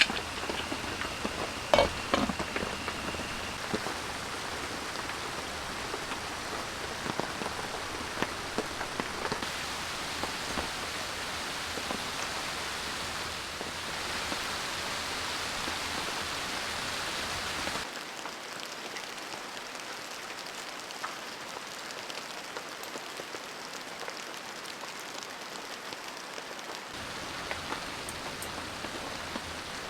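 Steady rain falling, with a few sharper drops or taps about two seconds in. The rain changes abruptly about eighteen seconds in, losing its low rumble and sounding thinner.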